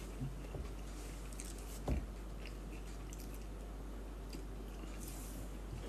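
Faint, close-up chewing of a mouthful of sweet potato, beans and guacamole with the mouth closed, with a single short click about two seconds in.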